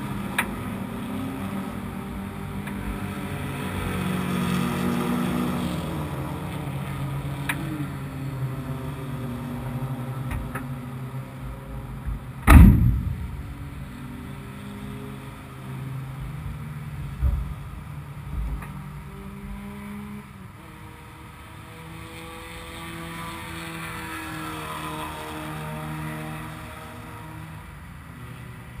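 A car engine running at idle, its pitch wandering slightly, with one loud sharp bang about halfway through and a few lighter knocks.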